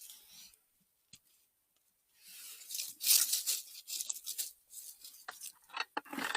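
Rustling and tearing of wet forest undergrowth being pushed through and handled, in rough bursts starting about two seconds in, loudest soon after.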